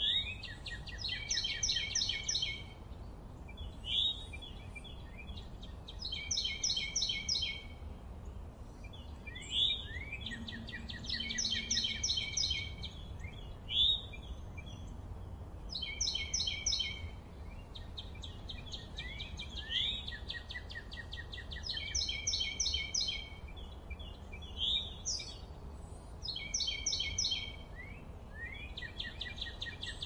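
Songbirds singing: a phrase of rapid high trilled notes repeats every three to four seconds, with single short chirps in between. A low steady background rumble runs underneath.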